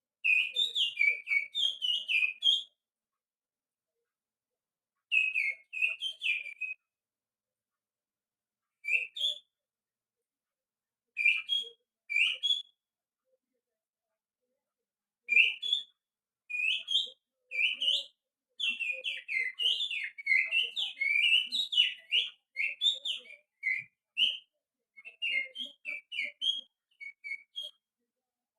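Finger whistling imitating a white-rumped shama's song: phrases of quick, sliding high whistled notes, broken by silent pauses of one to a few seconds, with a long, busy run of notes past the middle.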